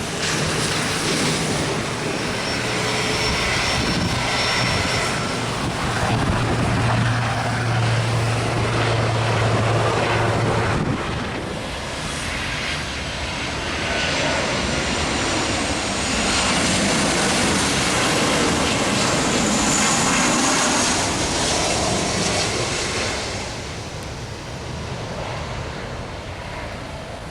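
Airliner engines running loud as an aircraft moves at the airport: a steady rush of engine noise with a low hum and a thin high whine that drifts in pitch, easing a little near the end.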